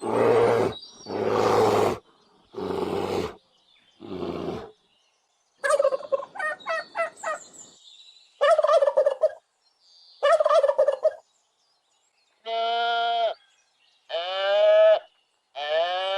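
A run of separate farm animal calls, one after another. First come several hoarse calls, then a fast rattling call about six seconds in, two shorter calls after it, and three long quavering pitched calls near the end.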